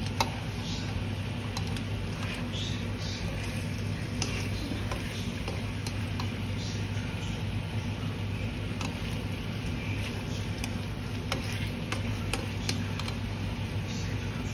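Chicken wings and mushrooms sizzling in a nonstick wok, with scattered clicks and scrapes as a slotted spatula stirs and turns them, over a steady low hum.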